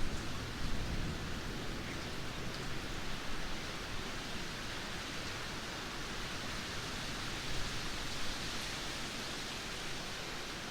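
Heavy downpour: a dense, steady hiss of rain, with a low rumble of wind that is stronger in the first few seconds.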